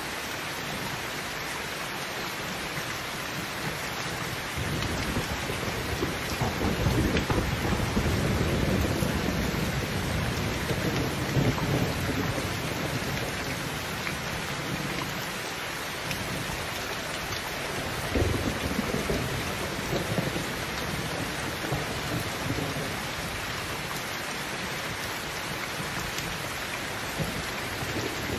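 Heavy rain pouring steadily, with a low rumble of thunder swelling about five seconds in and rolling on for several seconds, and a shorter rumble a little past the middle.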